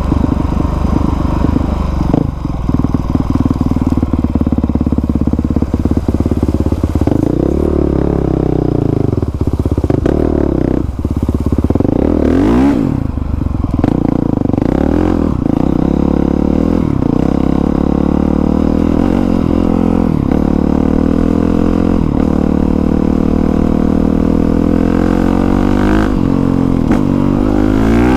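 2020 Honda CRF450R's single-cylinder four-stroke engine running under a rider, its revs falling and rising several times through the middle, then holding fairly steady.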